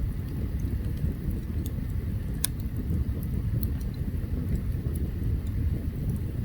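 Campfire burning: scattered sharp crackles and pops over a steady low rumble, the loudest pop about two and a half seconds in.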